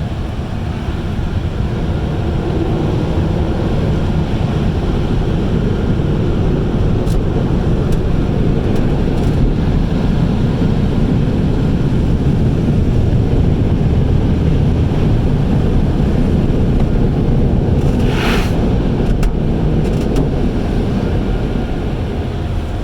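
Automatic car wash running over a truck, heard from inside the cab: a steady, loud rush of spraying water and machinery, with a brief sharper hiss about eighteen seconds in.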